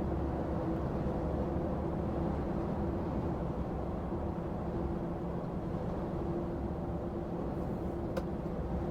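Heavy goods lorry on the move, heard from inside the cab: a steady low drone of diesel engine and road noise with a faint steady hum, and one brief click near the end.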